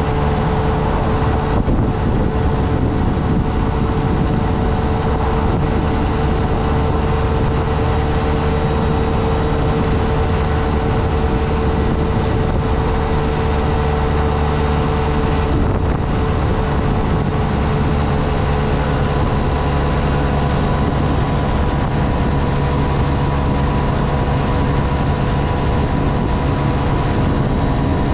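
Motorcycle engine running steadily under way, its note held over a constant rush of noise, shifting slightly a little past halfway.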